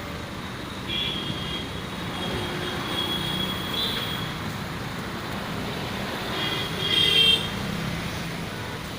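Steady road-traffic rumble with several short, high-pitched horn toots, the loudest about seven seconds in.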